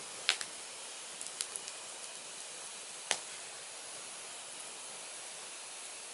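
Firewood burning: a steady hiss with sharp crackling pops, a loud one just after the start and another about three seconds in, with a few smaller snaps between.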